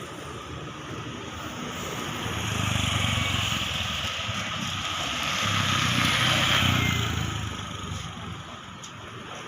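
A motor vehicle passing by twice, its engine and road noise swelling and fading about three seconds in and again around six to seven seconds in.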